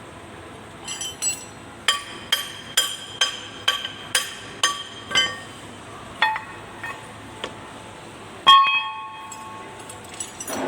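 Metal striking metal during tractor axle work: a run of about eight evenly spaced, ringing taps about two a second, then a few scattered clinks and one louder clang with a lingering ring near the end.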